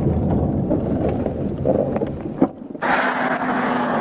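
Road and wind noise on the microphone: a low rumble for about two and a half seconds, then a click and a brief drop, then a brighter, steady rushing noise.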